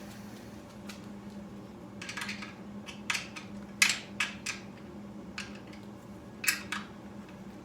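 Scattered short clicks and rustles of small parts and wires being handled, over a steady low hum.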